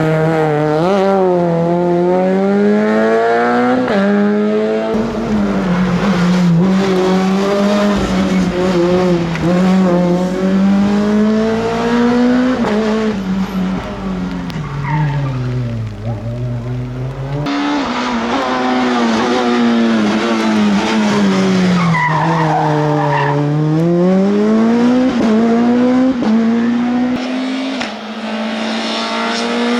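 Rally car engines driven hard, the revs climbing and dropping back again and again through gear changes and braking, with tyre squeal.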